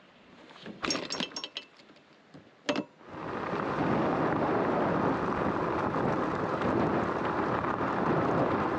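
A few short chirps and clicks, then about three seconds in the steady rush of heavy thunderstorm rain starts abruptly and keeps on loud.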